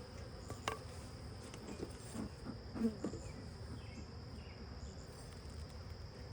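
Honeybees buzzing around an open hive during an inspection, with a few bees passing close by, briefly louder, a couple of seconds in. A sharp click under a second in.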